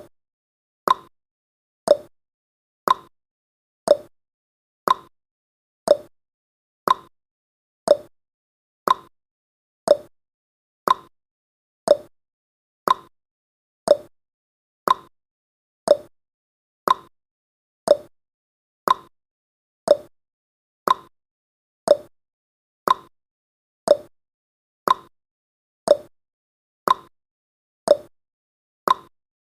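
Countdown timer's ticking sound effect: a short, sharp clock tick once a second.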